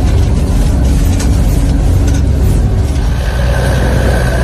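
Snowcat's engine running steadily with a loud low rumble. A faint steady whine joins about three seconds in.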